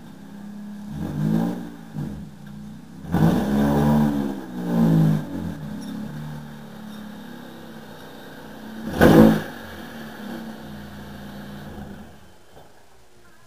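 Honda Civic EG's four-cylinder engine idling and blipped up several times in short revs, the sharpest and loudest about nine seconds in. The engine sound stops about twelve seconds in, as if switched off.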